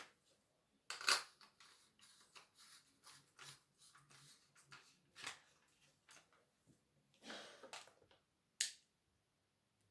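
Irregular small clicks, taps and scraping of objects being handled, with a louder click about a second in, a longer scrape about three-quarters of the way through, and a sharp click near the end.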